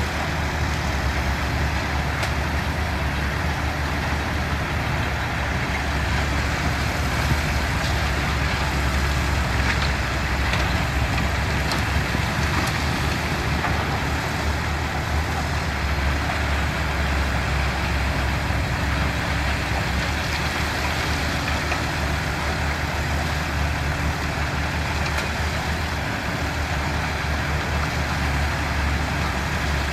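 Diesel engine of heavy earthmoving machinery running steadily, a deep even rumble with no breaks.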